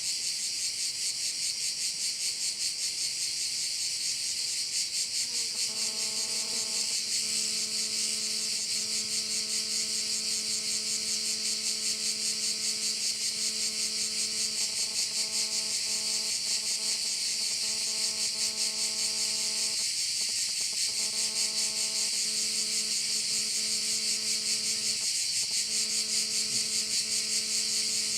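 Dense, continuous chorus of crickets, a fast, high-pitched pulsing chirr. About six seconds in, a steady low pitched hum from an unseen source joins it, breaking off briefly twice.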